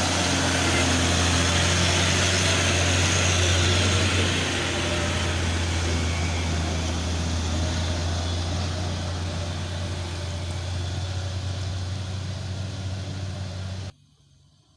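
Loaded coal truck's diesel engine running under load on a long climb, a steady low drone with road and engine noise over it, easing slightly after about four seconds. It cuts off suddenly near the end.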